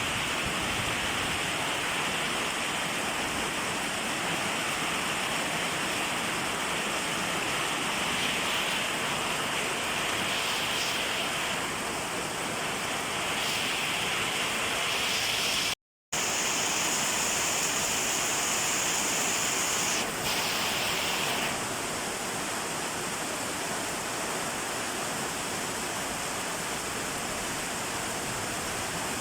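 Steady rain falling, an even hiss that cuts out completely for a moment about sixteen seconds in.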